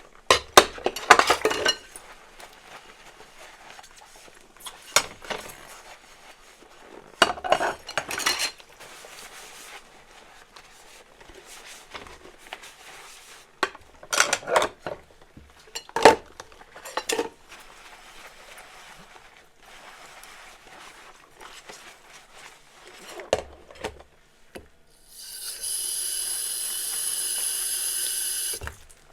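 Dishes and cutlery clinking against each other in scattered clusters as they are washed by hand. Near the end, a steady rushing sound of the tap running lasts about three seconds.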